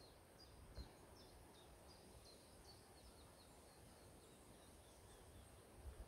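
Faint songbird singing: a series of short, high, downward-slurred notes, about three a second, fading away about halfway through, over quiet outdoor background.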